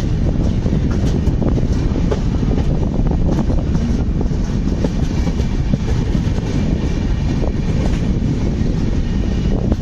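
Indian Railways passenger train running out of a station, heard from an open coach door: a steady loud rumble of the coach's wheels on the track, with scattered clicks from the wheels over rail joints.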